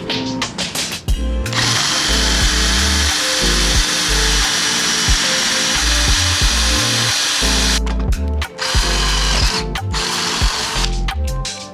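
A power tool running in a long burst of about six seconds, stopping, then running again briefly. Background music with a low bass line plays underneath.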